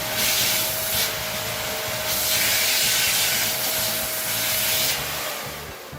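Wap Silent Speed Max corded upright vacuum cleaner running: a rush of air with a steady motor whine, surging louder twice as the nozzle works. Near the end the whine stops and the sound dies away.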